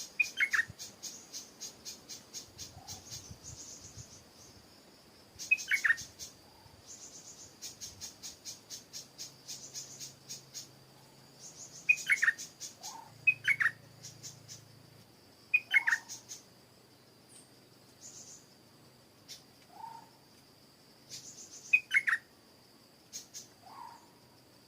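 Stripe-throated bulbul giving short, loud, falling call notes, singly or in pairs, every few seconds, with fainter lower notes between. Insects keep up a rapid pulsing trill and a steady high buzz behind them.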